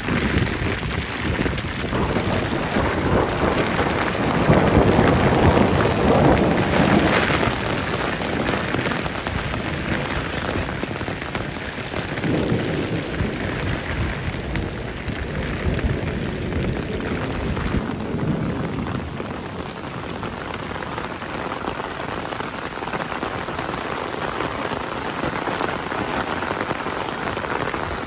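Steady rain falling on a surface, with a louder, deeper swell from about four to seven seconds in.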